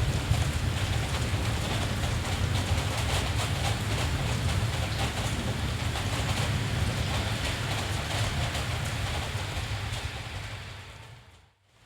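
Steady rain hiss with a deep low rumble of distant thunder that is strongest at first and slowly dies away. Near the end the whole sound fades briefly to near silence and then comes back.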